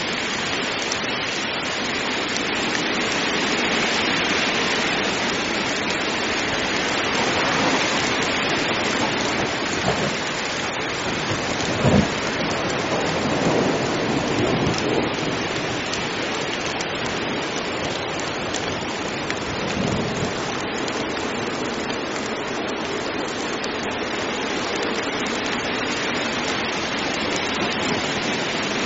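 Heavy rain falling steadily, with thunder: a sharp crack about halfway through and low rumbles around it.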